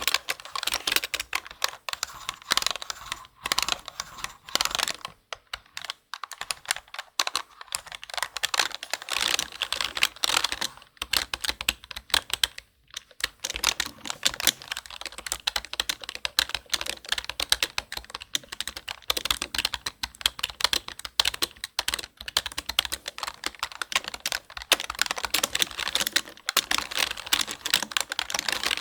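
Fast, continuous typing on a computer keyboard, close-miked: a dense run of crisp key clicks with short pauses now and then.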